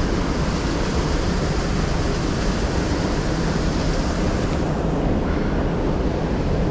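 Steady rush of river rapids, a loud even hiss of moving water; the higher part of the hiss softens a little about four and a half seconds in.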